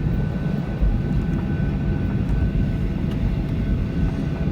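Cabin noise of a Boeing 737-800 taxiing after landing: its CFM56 engines at idle give a steady low rumble with a thin, steady high whine over it. A low thump sounds a little under a second in.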